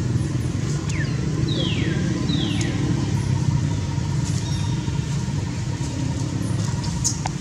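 A steady low engine rumble, with a few short high squeaks that fall in pitch about one second in and again two to three seconds in.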